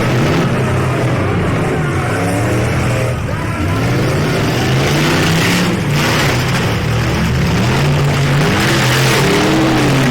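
Demolition derby truck engines revving and running hard, their pitch rising and falling again and again, with a brief sharp knock about six seconds in.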